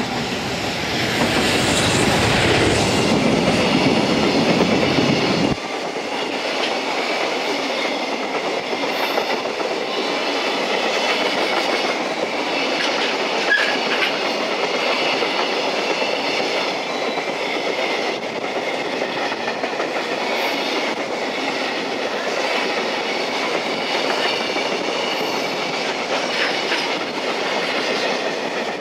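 JR Freight EF210 electric locomotive passing, followed by a long string of container wagons. A heavy deep rumble as the locomotive goes by drops away suddenly about five seconds in. Then steady rolling noise with wheel clacks runs on as the wagons pass.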